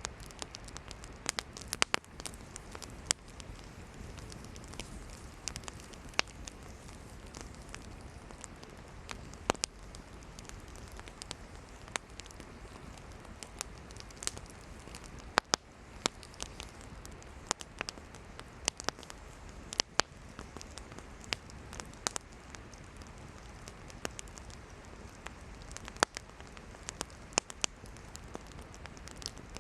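Wood campfire burning: steady low hiss of the flames with irregular sharp crackles and pops from the firewood, some much louder than others.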